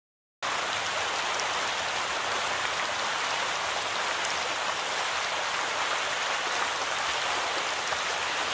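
Steady rain falling, an even hiss that starts abruptly out of dead silence about half a second in.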